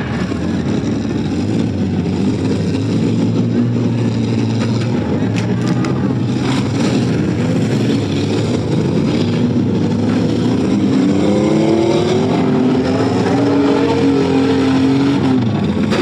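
Demolition derby cars' engines running and revving hard, with a rising rev building in the last third. A few sharp knocks come about five to seven seconds in.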